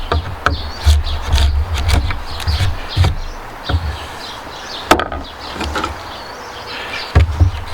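Irregular knocks and taps on timber, with a sharp crack about five seconds in, over a low rumble that comes and goes.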